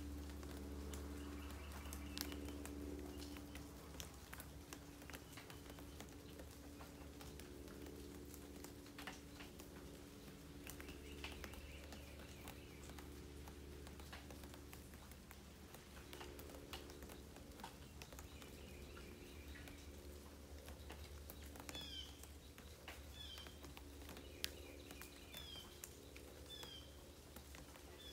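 Light rain pattering and dripping as scattered soft ticks over a quiet rural background. From about three-quarters of the way in, a bird's high, falling call repeats roughly once a second.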